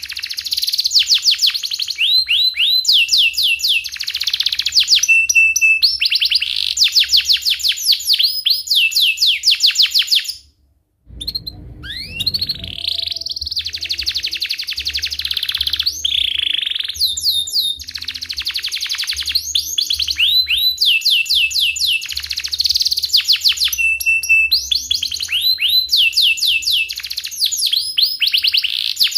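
Domestic canary singing a long, continuous song of rapid chirps and rolling trills, fast repeated high sweeps in a steady stream. The song breaks off for a moment about ten seconds in, then carries on.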